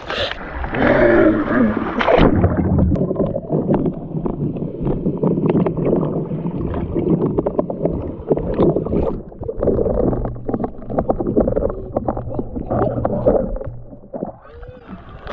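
Water sloshing and gurgling around a kayak after a capsize, with scattered knocks; the sound turns dull and muffled about two seconds in.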